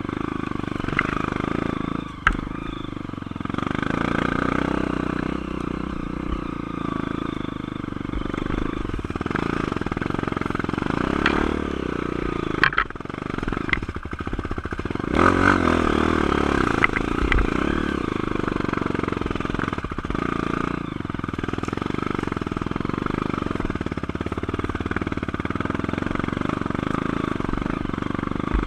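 Honda CRF230 dirt bike's single-cylinder four-stroke engine running and revving up and down under the rider's throttle. Sharp knocks and clatter come now and then, loudest around the middle.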